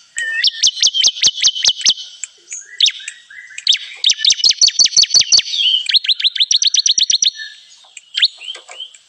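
Bar-winged prinia (ciblek kristal) song: rapid trills of sharp, high, repeated notes, about seven a second, in loud bursts of one to two seconds with short breaks between.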